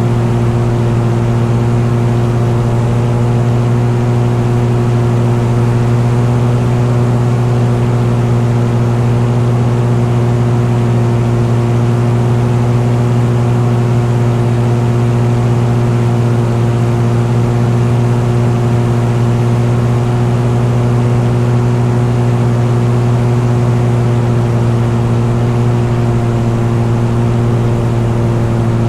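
An engine running at a constant speed, a strong steady hum that holds one pitch throughout.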